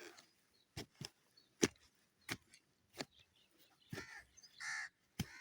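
Crows cawing a couple of times, with several sharp knocks spread through the middle.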